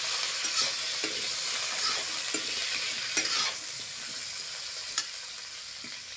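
Pieces of drumstick (moringa pods) sizzling as they fry in hot oil in a kadhai, stirred with a spatula that scrapes and taps against the pan a few times. The sizzle eases a little past the middle.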